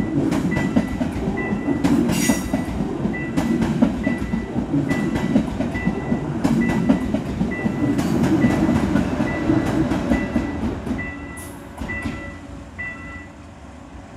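KTX-Sancheon high-speed train passing close by: a steady rumble with quick clicks of the wheels over the rail joints, fading as it draws away in the last few seconds. A level-crossing warning bell dings about twice a second above it.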